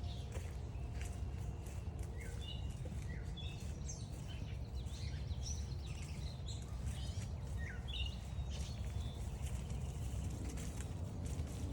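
Wild songbirds chirping and calling in a run of short, quick notes, over a steady low rumble.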